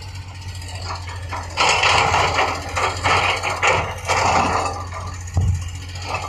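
A heavy earthmoving machine's engine running steadily under load, with two longer bursts of rattling, scraping noise in the middle and a single knock near the end.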